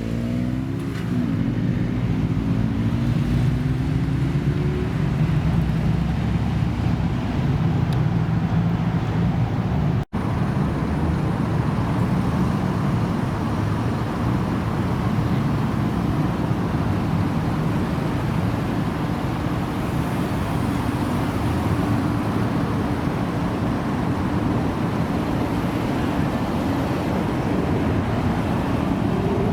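Car engine running, its pitch rising in the first few seconds as it revs or pulls away. A brief break about ten seconds in, then a car engine running steadily.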